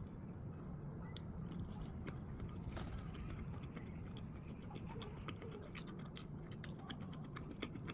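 Close-up chewing of a Korean hot dog with a chewy glutinous-rice batter and a large sausage, faint, with many small sharp mouth clicks throughout.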